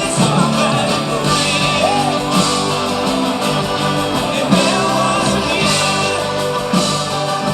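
A band playing rock music with singing and guitar.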